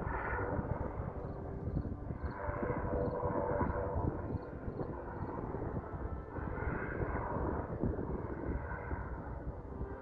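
Aircraft engine running, with gusty wind rumbling on the microphone; the engine sound swells and fades in waves.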